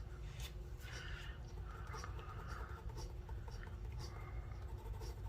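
Pencil shading a drawing on paper: a series of short scratchy strokes, roughly one a second, over a faint steady low hum.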